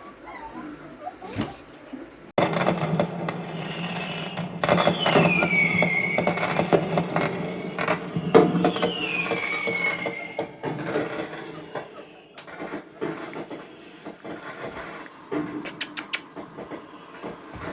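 Recorded fireworks played through a speaker: a dense crackle of pops starts suddenly a couple of seconds in, with two falling whistles, then thins to scattered pops.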